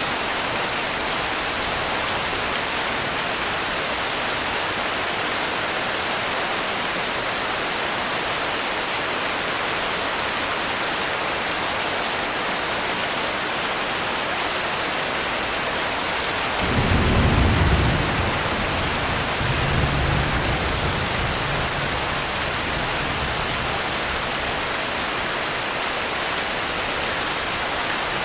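Steady rainfall, with a low roll of thunder about two-thirds of the way through that peaks, swells once more and rumbles away over several seconds.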